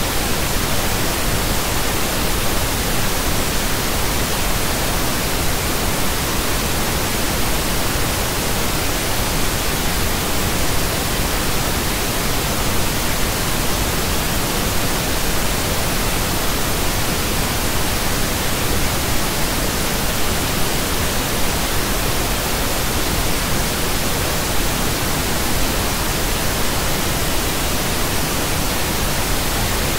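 Pink noise: a steady, even hiss spread across the whole range from deep to high, with no change throughout.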